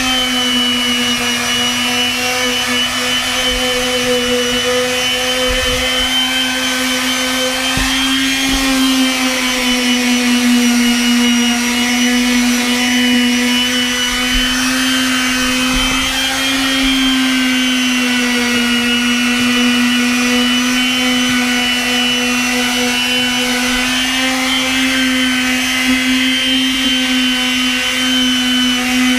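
Makita random orbit palm sander running steadily on deck boards: a continuous motor whine whose pitch wavers slightly, with the rasp of sanding beneath it.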